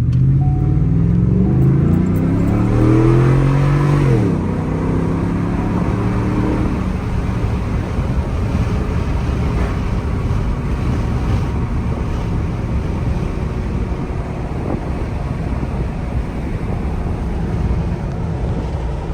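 Ford F-150's 5.0L Coyote V8 through an aftermarket stainless cat-back exhaust with a straight-through muffler and the factory resonator, accelerating hard: a deep note rising in pitch for about four seconds, dropping at an upshift, climbing again briefly, then settling into a steady drone. Heard from inside the cab with the windows down, with wind and road noise.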